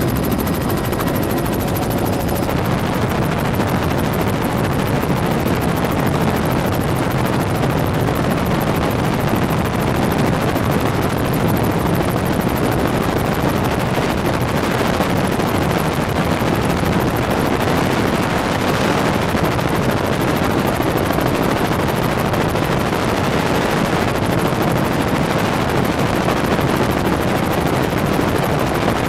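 Helicopter rotor and engine noise heard from aboard, a steady, rapid chop that holds unchanged throughout.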